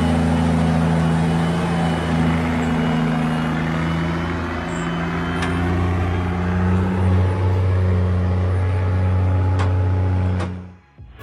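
Old Kenworth truck's diesel engine running steadily with a low, even drone. The sound cuts off abruptly near the end.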